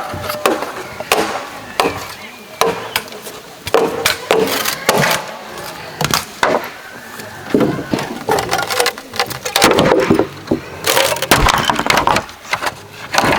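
Bamboo being chopped and split: a run of irregular sharp knocks and cracks, some with a short hollow ring.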